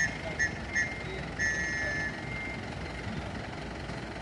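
Electronic warning beeps from a fire truck: three short, high beeps in quick succession, then one longer beep, over the low rumble of the truck's running engine. The pattern is typical of a reversing or operation alarm.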